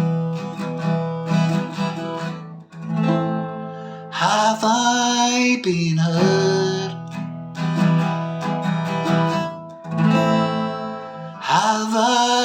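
Strummed acoustic guitar playing the closing chords of a song, the chords changing every second or two.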